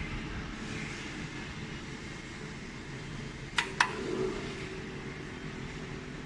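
Jewelry laser welding machine running with a steady fan hum. About three and a half seconds in come two sharp clicks in quick succession, followed by a brief low knock.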